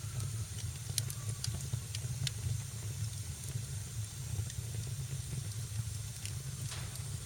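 Wood fire burning in a fireplace: a steady low rumble and hiss of the flames, with scattered sharp crackles and pops.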